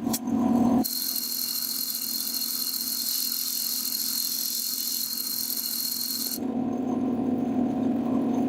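A power tool working wood. A motor hum gives way, about a second in, to a high hissing cut for several seconds, which then stops abruptly and the hum returns.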